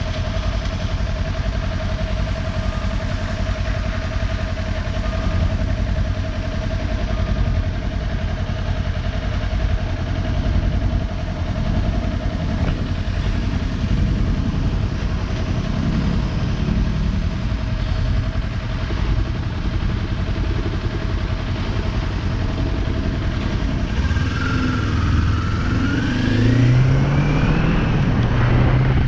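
Kawasaki Ninja 400's parallel-twin engine running at a steady pace over heavy wind and road noise, then rising in pitch as it accelerates in the last few seconds.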